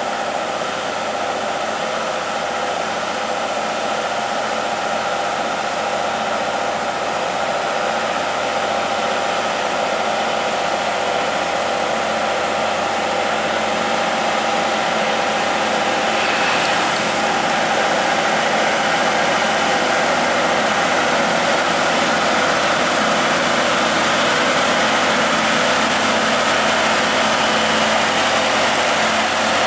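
Volvo 550 heavy truck's diesel engine droning steadily as it pulls a 60-ton bulldozer load, slowly growing louder.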